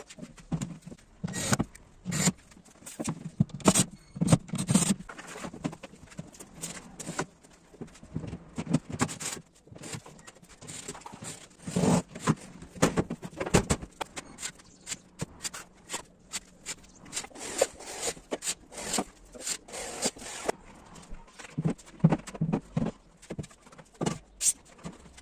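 Irregular knocks, taps and clatter of wooden boards being worked and handled, some in quick clusters and a few sharp and loud.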